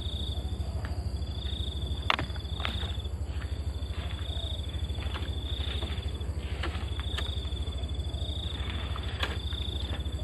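Insects chirping in short trills repeated at one high pitch, about one a second, over a steady low hum. A few sharp clicks come through, the loudest about two seconds in.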